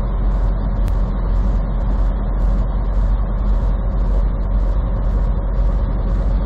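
Steady low road and engine rumble heard from inside a vehicle cruising at highway speed, with a faint hiss that pulses about twice a second.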